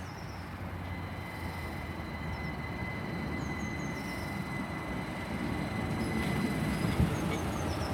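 Two coupled Class 387 electric multiple units pulling into the station, their running noise growing slowly louder, with a steady high squeal through the middle of the arrival.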